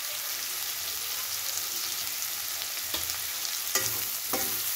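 Cubed pumpkin sizzling in hot oil in a stainless-steel kadhai. About three seconds in, a slotted steel spoon starts stirring it, with a few clinks and scrapes against the pan.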